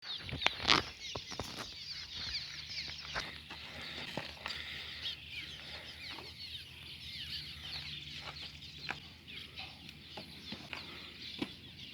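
Many cliff swallows calling at once: a continuous chatter of short, squeaky, overlapping chirps. A few sharp knocks in the first second are louder than the birds.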